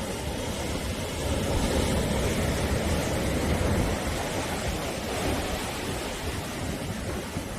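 Sea waves breaking and washing on the shore: a steady rushing surf that swells gently and eases again, heaviest in the low rumble.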